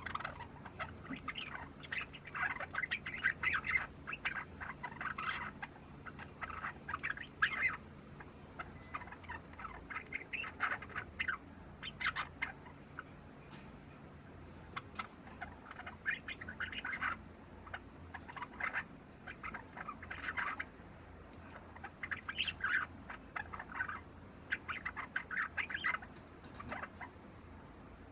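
Young Java sparrow, about three months old, practising its subsong: bouts of quick, chattering notes broken by short pauses.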